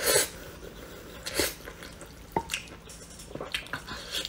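Close-miked wet chewing of a mouthful of wakame seaweed salad, in short irregular squelchy bursts, with one sharp click about two and a half seconds in.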